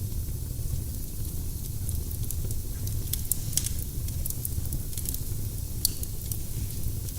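Firewood burning in a fireplace: a steady low rumble with scattered sharp crackles and pops, one louder pop near six seconds in.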